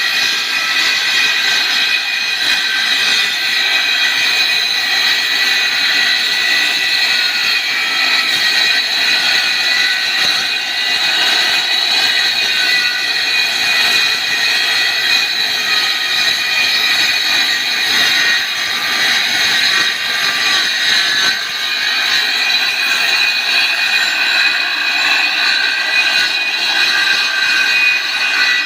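Circular saw cutting wood: a loud, steady high-pitched whine from the spinning blade, its tones wavering slightly now and then.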